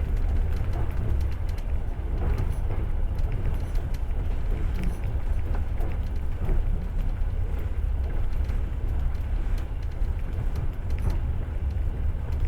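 Passenger train running at speed, heard from inside the carriage: a steady deep rumble of the wheels on the track with faint scattered clicks and knocks.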